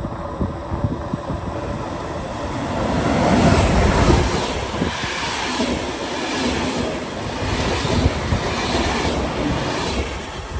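A train passing, loudest about four seconds in, with a regular clatter as its wheels go by.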